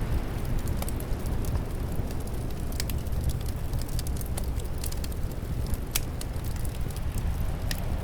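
Wood fire crackling, with irregular sharp pops and snaps scattered throughout, over a steady low rush of wind.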